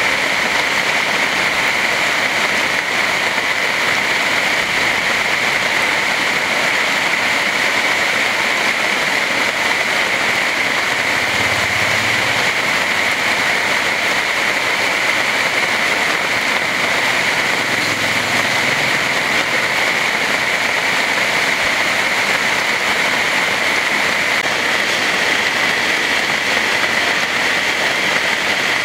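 Heavy rain falling in a steady, dense hiss with no let-up.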